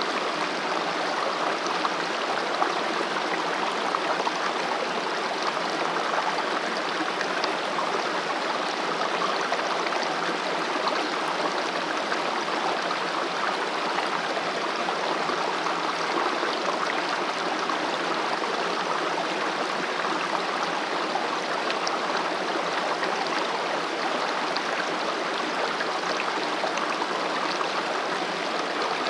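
Mountain valley stream flowing over rocks, a steady continuous rush of water with small splashes and gurgles.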